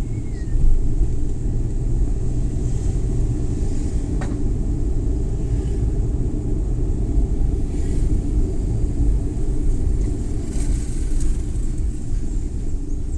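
Suzuki Every Wagon (DA64W) kei van driving, its small engine and tyre noise making a steady low rumble. There is a single sharp click about four seconds in, and brief hissing swells later on.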